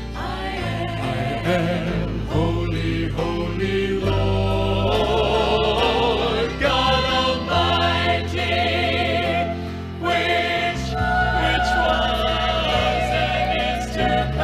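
A gospel vocal group singing in harmony, with vibrato on sustained notes, over an accompaniment with a bass line that changes note every second or two.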